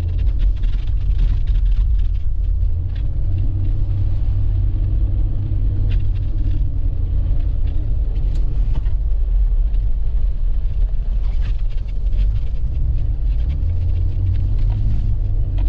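Steady low rumble of a vehicle driving through deep, rough snow, with scattered light knocks and crunches.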